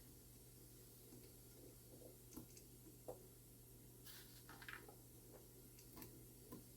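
Near silence with a few faint, light metallic clicks and taps, most of them in a small cluster a little past the middle: a small tool working the clips on a clock movement's plates.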